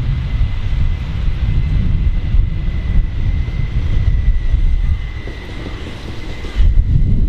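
Regional express train pulling in alongside the platform: a steady low rumble with a steady high whine over it. About six and a half seconds in, the whine stops and the rumble surges.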